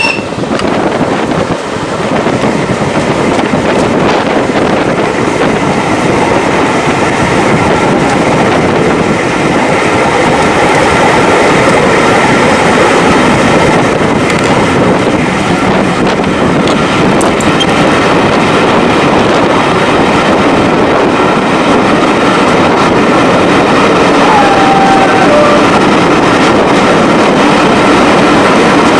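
Train running along the line: a steady, loud rolling noise that picks up a little over the first couple of seconds.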